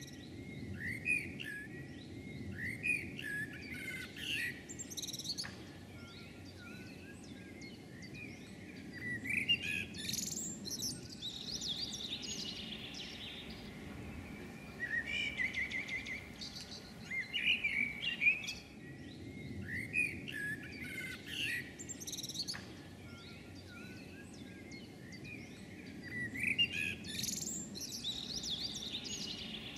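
Songbirds singing: phrases of chirps and whistled trills that come every few seconds, over a low steady background rumble.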